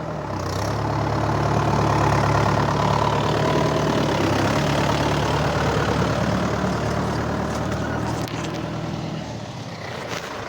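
Mahindra tractor's diesel engine running steadily, growing a little louder about a second in and easing off slightly near the end.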